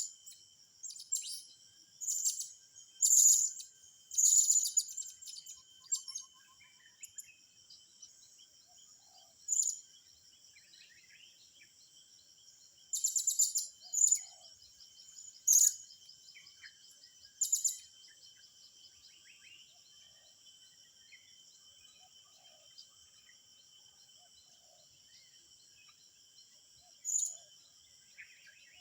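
Short bursts of very high, sharp bird chirps, clustered near the start and again in the middle with one more near the end, over a steady high-pitched insect buzz.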